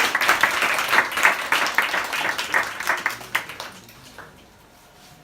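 Audience applauding, many hands clapping, fading out over the last second or two.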